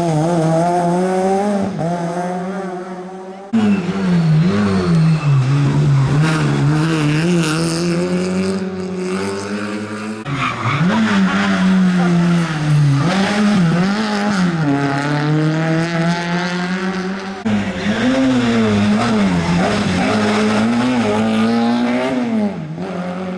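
Rally cars driving hard through a special stage, one after another: engines revving up and falling back through gear changes, with tyre squeal. The sound changes abruptly three times as one car gives way to the next.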